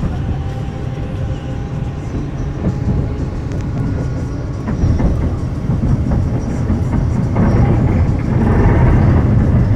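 Manila MRT-3 train running: a steady low rumble with a few clicks, growing louder near the end.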